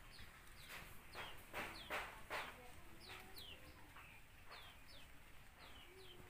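Birds calling: short falling chirps repeat over and over, with a few louder short, sharp calls in the first half.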